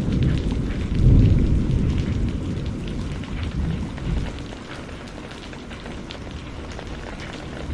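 Rain falling steadily with scattered drops pattering, under a low thunder rumble that swells about a second in and fades away by the middle.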